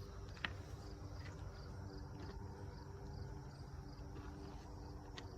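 Faint background sound: a steady low hum under a high, evenly repeating chirp about three times a second, with a faint click about half a second in and another near the end.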